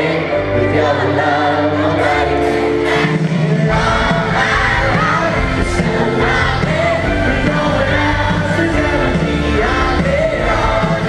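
Live pop music at a concert: a band playing with a singer, the crowd faintly audible. The bass and drums come in fully about four seconds in.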